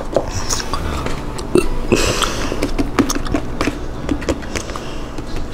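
Close-miked eating sounds: wet mouth clicks and smacks of chewing, with light handling of a chicken nugget and its cardboard box and sauce cup.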